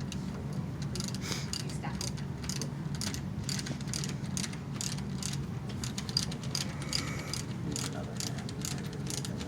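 Ratchet wrench clicking in quick runs as bolts are turned out of the engine, over a steady low hum.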